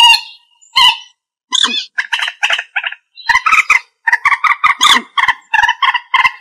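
Common moorhen calling: a fast series of short calls in quick runs, with two brief pauses in the first second and a half.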